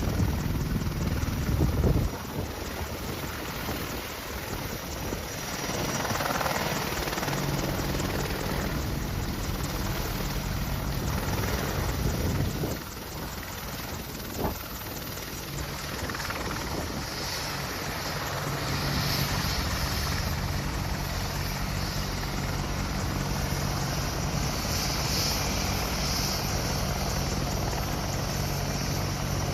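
Helicopter rotor and engine noise, steady with a low hum. The level drops abruptly twice, about 2 and 13 seconds in.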